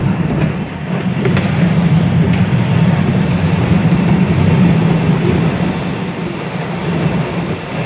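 Postojna Cave tourist train rolling along its track, heard from an open car: a steady rumble of wheels on rails, with a few faint clicks.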